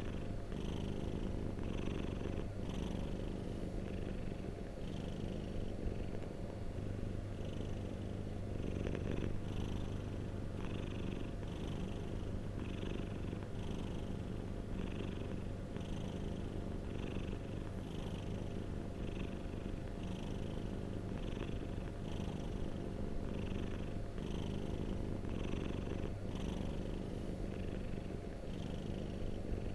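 A domestic cat purring steadily close to the microphone: a continuous low rumble with a faint hiss that pulses about once a second.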